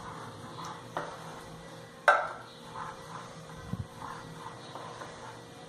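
A spoon stirring a thick mixture of condensed milk, margarine and chocolate powder in a bowl, with soft repeated scraping and a sharp tap of the spoon against the bowl about two seconds in.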